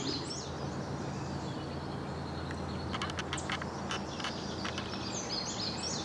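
Small birds calling outdoors: a high stepped phrase near the start and again near the end, and a quick run of sharp chip notes around the middle, over a steady low background hum.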